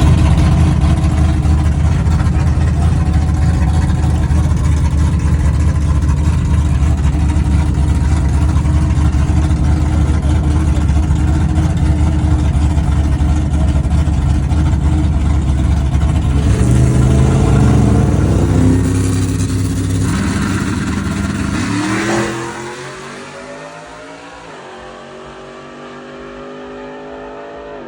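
Truck engines running loud and steady, then revving up with pitch climbing in steps from about 16 seconds in, as in accelerating through gears. Near 22 seconds a fast rising rev, after which the engine sound grows much quieter.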